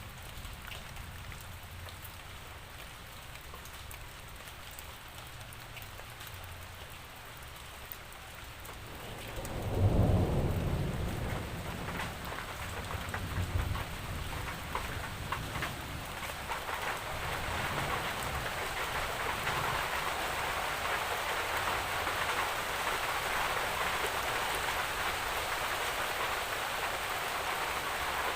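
Steady rain falling, with a loud low thunder rumble about ten seconds in that rolls on for a few seconds. The rain grows heavier in the second half.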